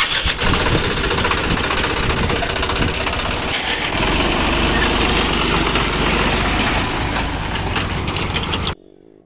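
A motor running steadily with a fast rattling rhythm, cutting off abruptly near the end.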